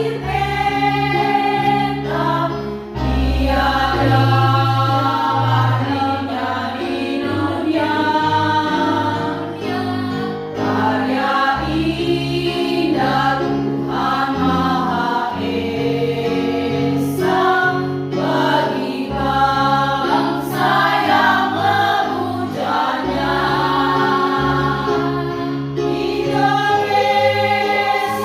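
A choir singing a song in parts, with held low bass notes underneath.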